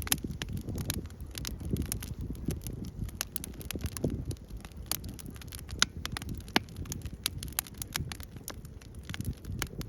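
Wood fire crackling, with irregular sharp pops and snaps, a few louder ones, over a low rumble.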